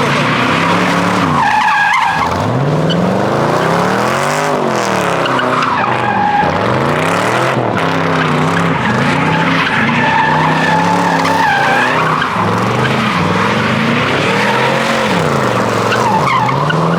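Car engine revving up and down again and again while the tyres squeal in a sustained skid, with the high squeal rising and fading several times: a car spinning its tyres in a car-meet stunt.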